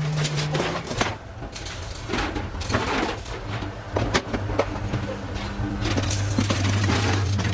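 Metalworking in a workshop: irregular metallic taps and clinks from sheet metal being worked, over a low machine hum that stops within the first second and another, lower hum that starts about halfway through.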